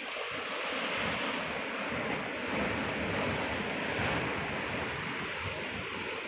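Ocean surf rushing and washing onto a beach, a continuous swell of breaking waves, with sea wind on the microphone.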